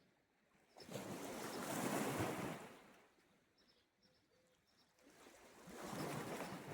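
Sea waves washing onto the shore, two in turn: one surges about a second in and fades away, and the next builds near the end.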